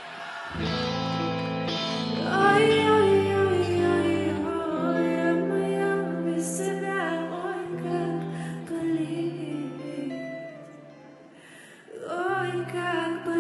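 Live pop song over a concert PA: sustained chords with a long-held, gliding female vocal line. The music thins out and drops in level shortly before the end, then swells back in.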